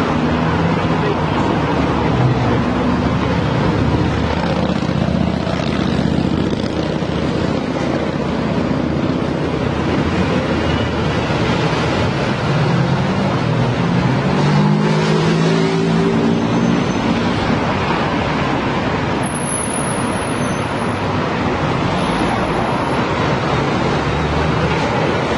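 Busy road traffic: a steady hiss of tyres and passing cars, with vehicle engines audible underneath. Around the middle, several engines rise in pitch as vehicles accelerate.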